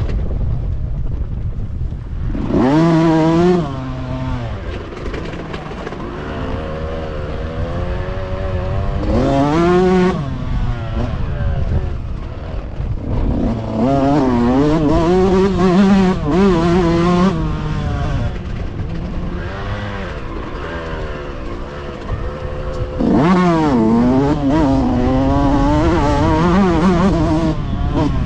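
Motocross bike engines revving hard and easing off over and over as the bikes ride the track, with louder surges of high revs about 3 s, 10 s, 14 to 17 s and 23 to 27 s in.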